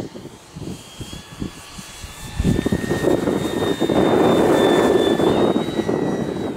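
Electric motor and propeller of an E-flite Draco RC model plane in flight, a thin steady whine, under strong wind buffeting the microphone that gets much louder about two and a half seconds in.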